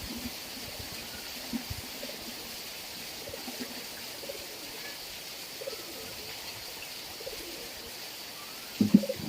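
Steady heavy rain, with scattered short low-pitched sounds over it; the loudest is a brief cluster near the end.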